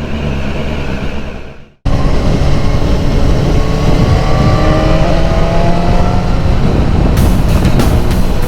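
BMW S1000R's inline-four engine running on the road; after a brief cut about two seconds in, it pulls hard with its pitch rising slowly. Near the end, background music with a regular beat comes in over it.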